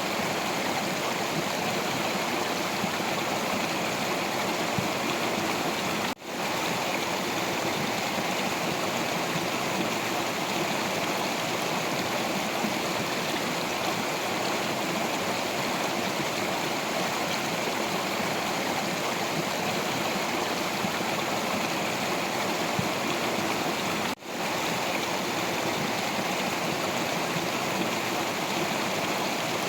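Stream water rushing and splashing steadily over rocks. Twice the sound dips out for an instant.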